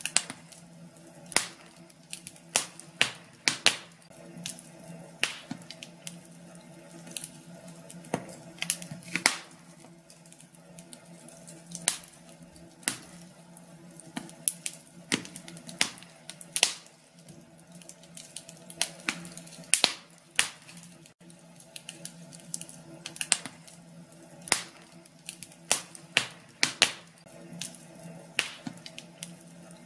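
Wood fire in a fireplace crackling, with irregular sharp pops and snaps, some loud, over a faint steady low hum.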